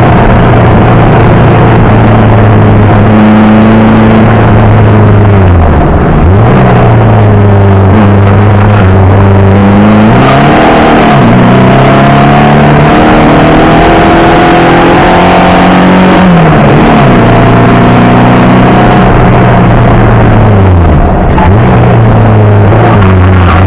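Beetle 1303's Porsche Type 4 air-cooled flat-four engine with Weber carburettors, pulling hard at high revs under acceleration. Its pitch drops sharply and climbs back up again about four times as the driver lifts off and accelerates again.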